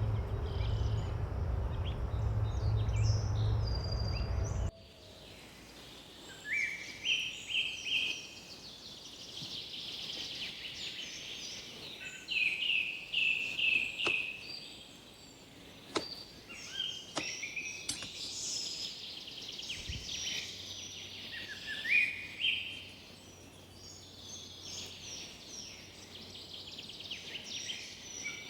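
Songbirds singing outdoors, repeated short phrases of quick rising chirps, several birds calling in turn. For the first few seconds a low rumbling noise sits under them and then cuts off suddenly.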